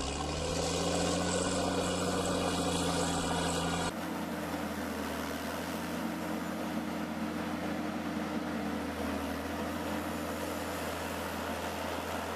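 Engine of a machine running: it speeds up briefly at the start, then holds steady. About four seconds in it cuts abruptly to a different steady engine sound.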